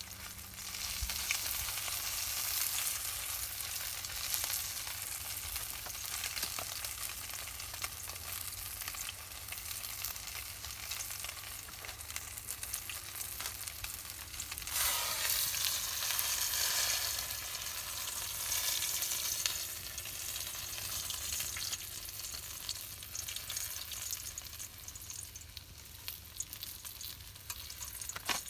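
Pork roasting over a campfire, giving a steady sizzling and crackling that grows louder for a few seconds about halfway through.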